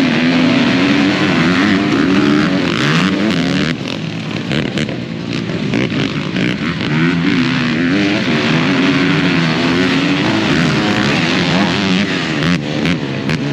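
Dirt bike engines revving as the bikes race, their pitch rising and falling repeatedly with the throttle.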